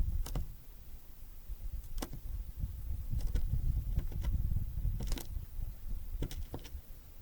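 Great tits and blue tits tapping and pecking at a bird feeder: sharp irregular knocks about once a second, over a low wind rumble on the microphone.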